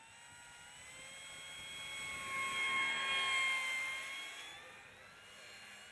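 Electric motor and propeller of a Dynam Cessna 188 'Dusty' RC model plane whining as the plane flies past, swelling to loudest about three seconds in and then fading.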